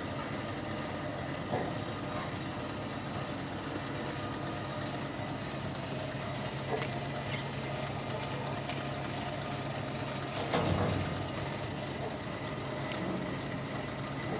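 Steady low motor hum, with a few brief high chirps and a short louder sound about ten and a half seconds in.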